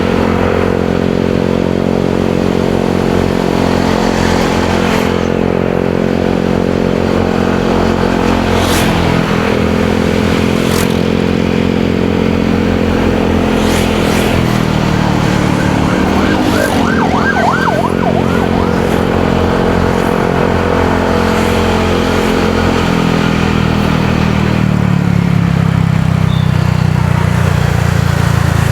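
Motorcycle engine running under way, its pitch falling and rising with the throttle, over road and traffic noise. A brief warbling high tone sounds a little past halfway.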